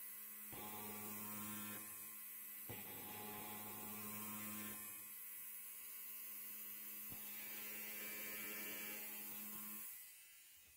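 Electric hair clipper buzzing steadily, its tone shifting every couple of seconds with a few faint clicks, then dropping away near the end.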